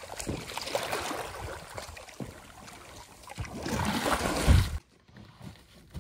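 Water running and splashing, with scattered knocks and a heavy low thump about four and a half seconds in. The sound then cuts off suddenly to a much quieter background.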